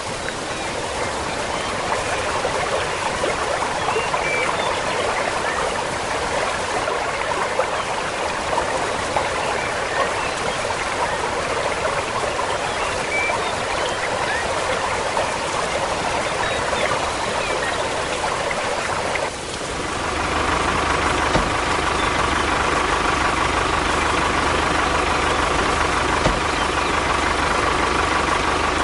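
Water running steadily, like a small stream. About two-thirds of the way in, a small motor starts up with a steady whine and low hum over the water.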